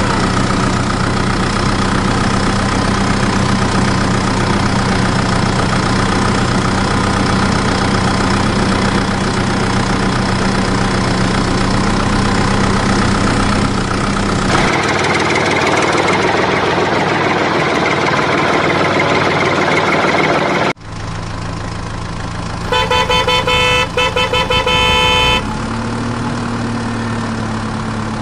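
Mini toy tractor's motor and sound effects: a steady engine hum that changes character about halfway through, cuts off suddenly, then a pulsing horn beeps for about two seconds before the engine hum starts again.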